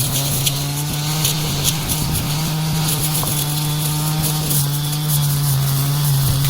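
Engine-driven brush cutter running at high speed while cutting weeds, its engine note sagging a little now and then under load, with crackling as the cutting head strikes the vegetation.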